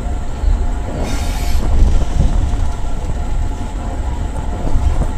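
Pakistan Railways passenger train rolling slowly along a station platform, heard from the carriage window: a steady low rumble of the carriage and wheels, with a brief hiss about a second in.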